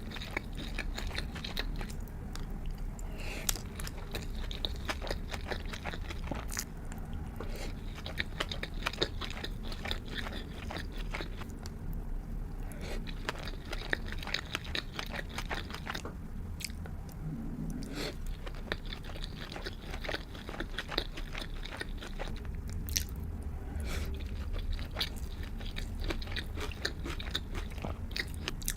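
Close-miked eating of sushi and sashimi: steady chewing with wet mouth smacks and many small clicks, and a few sharper bites.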